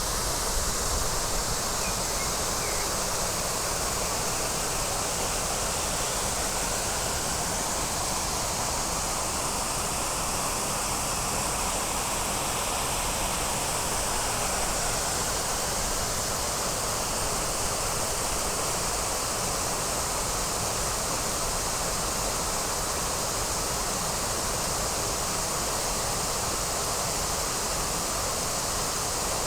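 Waterfall: falling water pouring steadily into a pool.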